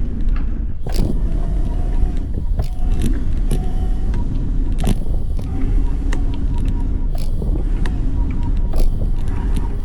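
Wind buffeting the microphone and road noise while riding a small electric bike, with scattered clicks and knocks from bumps and rattles.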